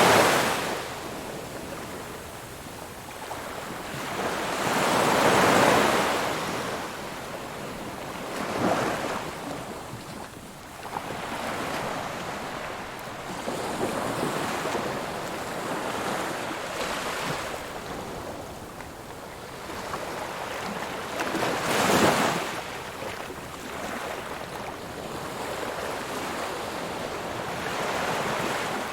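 Ocean waves breaking on a shore: a steady wash of surf with separate waves rising and falling, the largest cresting about five seconds in and again about twenty-two seconds in.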